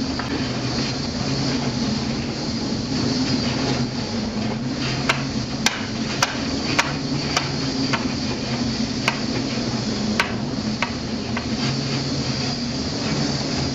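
A steady machinery drone with a low hum, broken by sharp knocks. The knocks come loosely, a run of them about every half second between about five and eight seconds in, then a few more near the end. This is typical of a ship's machinery running in heavy weather, with something loose banging.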